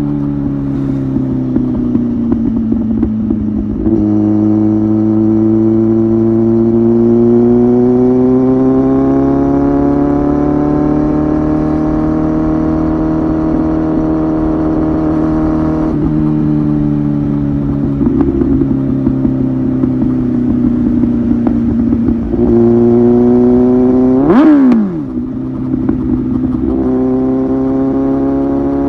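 Kawasaki ZX-10R Gen 3 inline-four engine running through a Tyrants titanium muffler while riding. Its pitch rises and falls slowly, with sudden steps where the gears change, and a quick sharp rise and fall in pitch about three-quarters through.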